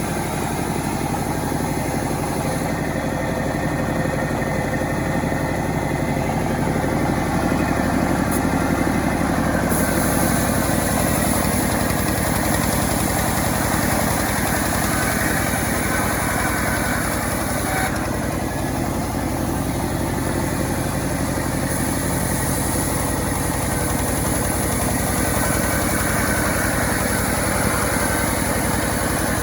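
Self-assembled chainsaw's small engine running steadily, getting slightly louder for a few seconds about a third of the way in.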